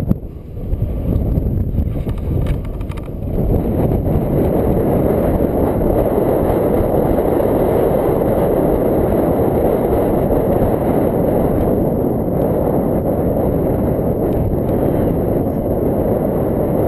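Strong wind buffeting the microphone as a loud, low rushing roar, a little weaker for the first three seconds and then steady.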